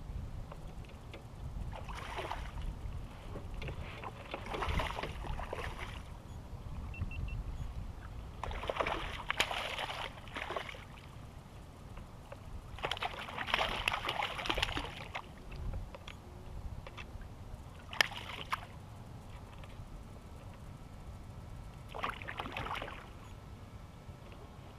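Kayak paddle strokes: water splashing and dripping off the paddle blade in short bursts every few seconds, over a low steady rumble.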